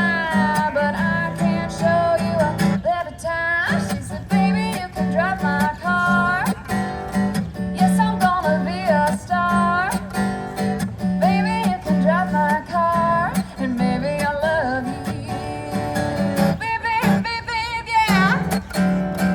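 Live acoustic guitar strummed, with a singing voice sliding between notes over it.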